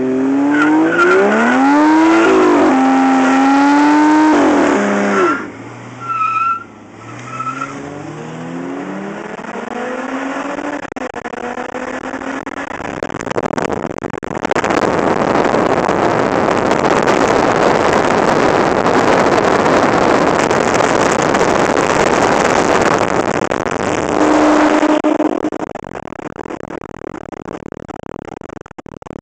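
Toyota Soarer's twin-turbo 1JZ-GTE straight-six revving hard, its pitch climbing in steps, then after a short lull a long burnout: the rear tyres spinning with a loud, steady screeching hiss for about ten seconds before it stops.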